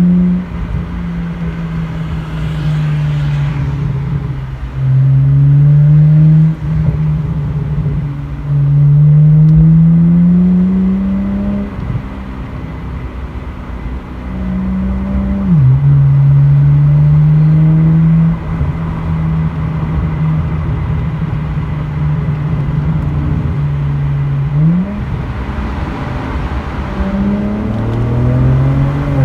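BMW 335i twin-turbo straight-six through a muffler-delete exhaust with straight pipes in place of the mufflers, pulling through several accelerations. The pitch rises in runs and drops sharply between them, as at gear changes, and is loudest in three stretches of a few seconds each.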